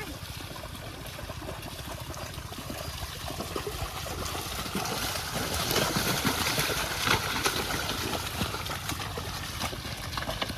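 Water trickling and sloshing, with many small splashes, growing louder about halfway through.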